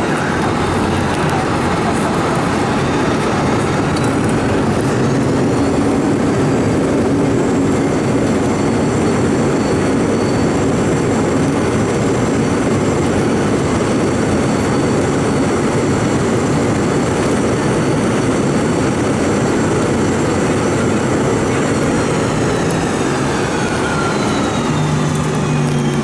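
Cabin noise of a Boeing 717-200 on its landing rollout: a loud rumble under the whine of the rear-mounted Rolls-Royce BR715 turbofans. The whine climbs in pitch about five seconds in as the engines spool up for reverse thrust, holds, then winds down from about 22 seconds in as the aircraft slows.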